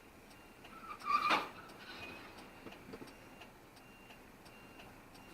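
Faint, evenly spaced ticking, with a brief louder rushing noise about a second in.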